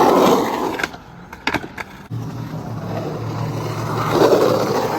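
Skateboard wheels rolling over pavement, with a steady low hum from about two seconds in and a louder swell near the end. A few sharp clicks of the board come in the first two seconds.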